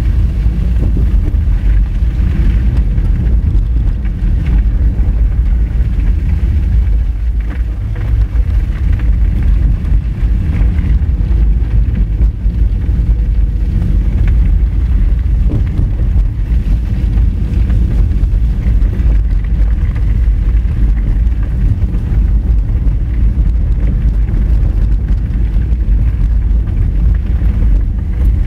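Car driving on an unpaved gravel forest road: a steady, loud low rumble of tyres on the dirt surface and the running engine, with some wind noise on the microphone.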